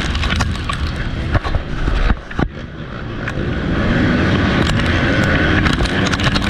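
MX2 motocross bike engine racing at high revs, with a brief throttle-off just past two seconds in and then the revs building up again. Scattered short knocks and clatter through the run.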